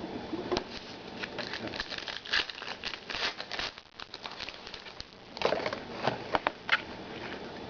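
Trading cards being handled and shuffled, with rustling and crinkling and small snaps. There is a louder cluster of crinkles and snaps a little over five seconds in.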